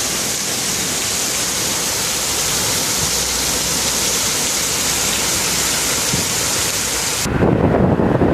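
Heavy rain pouring down, a loud steady hiss. About seven seconds in it cuts abruptly to a lower, rougher rushing noise with wind buffeting the microphone.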